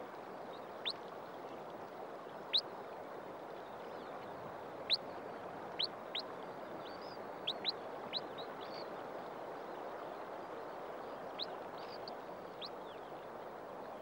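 Wrybill peeping: about fifteen short, thin, high notes at irregular intervals over a steady hiss.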